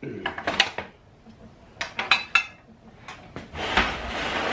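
Metal clinks and taps from hand tools and head bolts being handled on an engine's cylinder head, with a rasping noise lasting about a second near the end.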